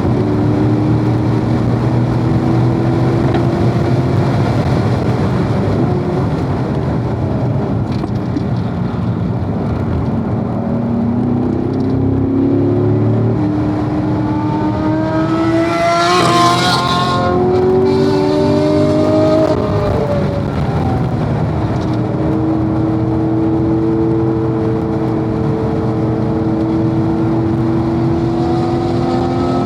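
Corvette's V8 engine heard from on board while driven hard on a race track, its pitch climbing and dropping as it runs through the gears. About halfway through there is a brief, louder burst of high-pitched noise.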